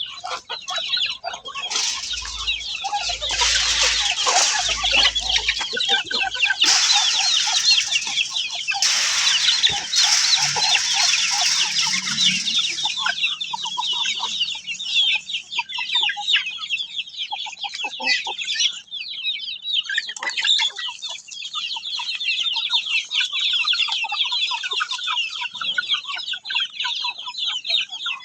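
Chickens calling: a dense, continuous chorus of rapid high chirps and clucks, fuller and louder in the first half.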